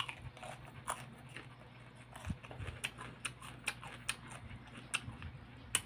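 A person biting into and chewing a raw cucumber: a sharp crunch of the bite at the start, then irregular crunching clicks of chewing, with another loud crunch near the end.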